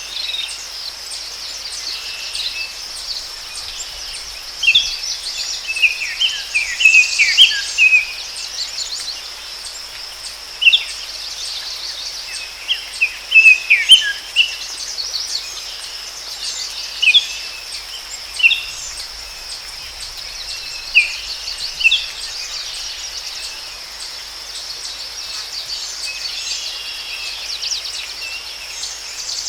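Forest ambience: a steady high-pitched insect drone with songbirds chirping in short, scattered phrases, busiest a few seconds in and again around the middle.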